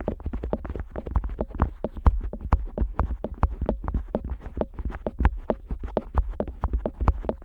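An otoscope pressed, rubbed and tapped against the ear of a Neumann KU100 dummy-head microphone. It makes close-up, irregular clicks and soft thumps, several a second, with a deep muffled rumble from contact right at the microphone's ear.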